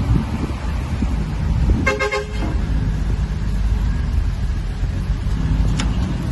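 A vehicle horn gives one short toot about two seconds in, over a steady low rumble of road traffic and wind on the microphone. A single sharp tick sounds near the end.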